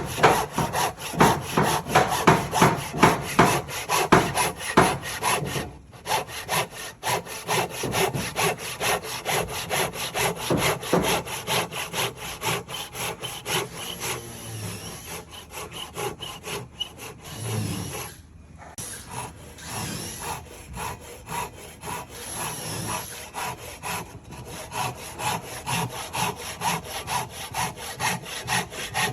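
Hand saw cutting through timber for a nuki kama-tsugi joint, in fast even strokes of about three a second. The strokes are loudest over the first five seconds and quieter after, with short pauses about six and eighteen seconds in.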